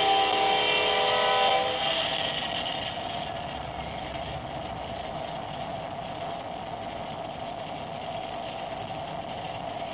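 Norfolk Southern diesel locomotive's horn sounding a chord of several notes, cutting off about a second and a half in. The freight train then rolls past, making a steady noise.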